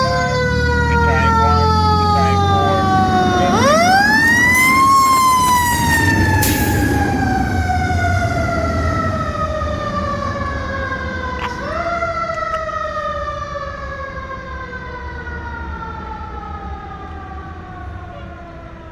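Federal Q mechanical siren on a fire engine winding down, spun back up about three and a half seconds in to a high wail, then coasting down in a long falling moan with another short boost about twelve seconds in. The truck's engine rumbles underneath, and the whole sound fades as the engine moves away.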